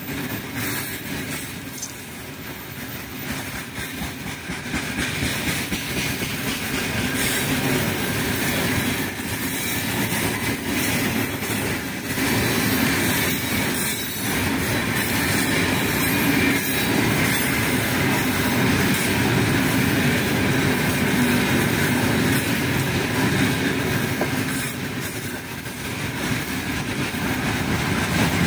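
Freight train of open gondola wagons rolling past, wheels clattering and rumbling on the rails, growing louder over the first several seconds and then running steadily.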